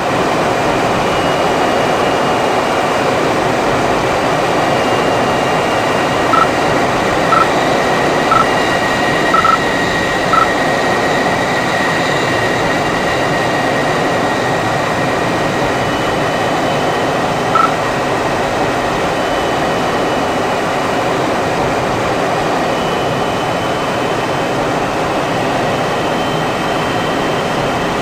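MiG-21 jet engine running steadily: a loud, even rush with faint high whine tones. Five short high beeps come about a second apart about a quarter of the way in, and a single beep comes later.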